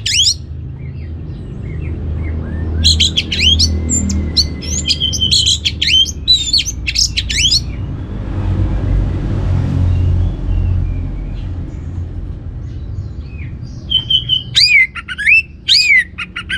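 Orange-headed thrush singing: two bursts of quick, varied whistled phrases with rising and falling notes, separated by a pause of several seconds, over a steady low rumble.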